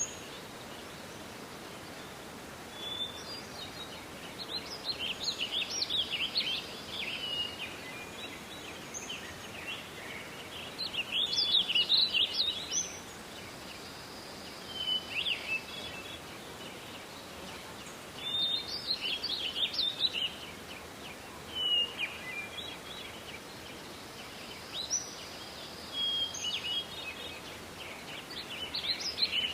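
Forest songbirds singing, a quick trilling phrase of song every few seconds, over a steady background hiss.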